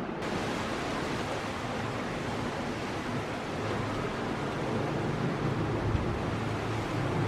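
Jet airliner engine noise: a steady rushing sound with a low hum that grows a little stronger in the second half.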